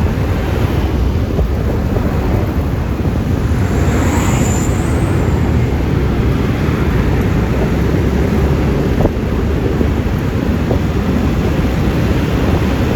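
Wind buffeting the microphone and road noise while riding a Yamaha Lexi LX 155 scooter, steady throughout, with a brief high hiss about four seconds in.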